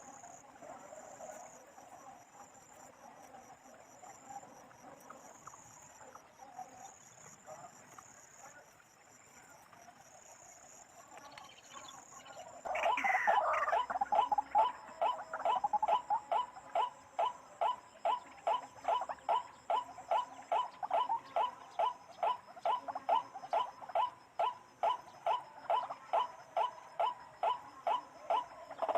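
Faint insect chirring, then about 13 seconds in a white-breasted waterhen's call starts abruptly: a loud, monotonous 'ruak' note repeated evenly, about two a second.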